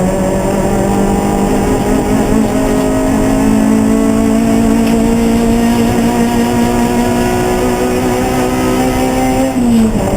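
Racing car engine running at high load, its pitch climbing slowly and steadily as it pulls. Near the end the pitch drops sharply as the revs fall off.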